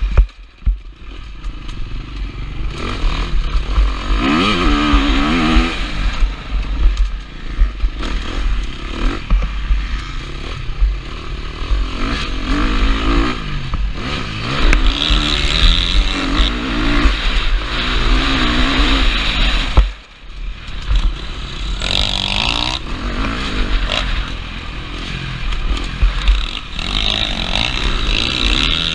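KTM 350 SX-F four-stroke single-cylinder motocross engine, revving up and down over and over as the rider works the throttle, with heavy wind rumble on a helmet-mounted microphone. The throttle snaps shut briefly about 20 seconds in.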